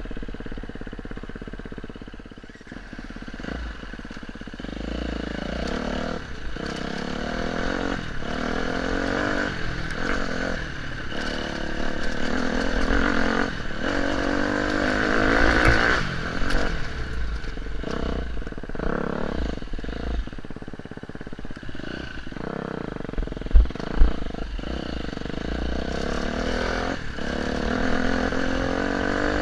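Off-road motorcycle engine revving up and falling back again and again as the rider works the throttle and gears, with some rattle. Two sharp knocks come close together about two-thirds of the way through.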